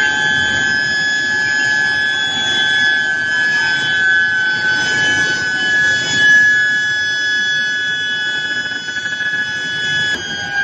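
Induction billet heating furnace running, its coil giving a steady high-pitched whine with overtones over a bed of factory noise; the pitch shifts slightly near the end.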